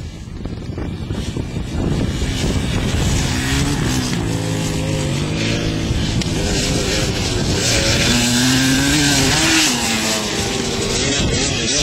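Motocross dirt bike engine revving, its pitch rising and falling, growing louder over the first couple of seconds.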